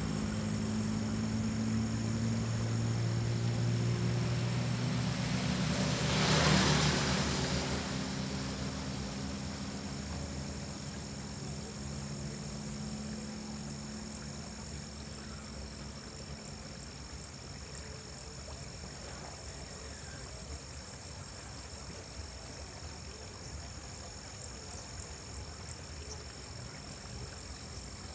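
A passing motor vehicle's engine hum, strongest in the first several seconds with a swell of noise about six seconds in, then fading away. Insects chirr steadily throughout.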